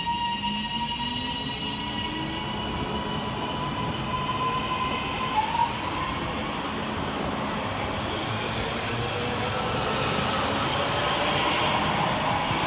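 Class 331 electric multiple unit pulling through the station: the electric traction motors whine and rise in pitch as the train gathers speed. Wheel and rail rumble then grows louder, peaking near the end as the train passes close.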